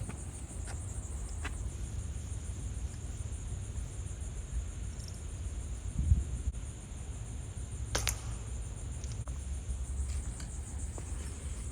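A single sharp shot from an FX air rifle about eight seconds in, over steady high-pitched insect buzzing.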